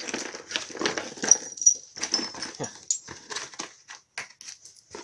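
Loose small metal hardware (bolts, drill bits, coins) clinking and rattling as it is rummaged and lifted out of a cardboard box: a run of irregular light clicks and knocks.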